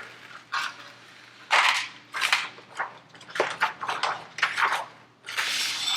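Plastic sheet protector being peeled back from a sticky diamond painting canvas, crinkling and crackling in irregular bursts.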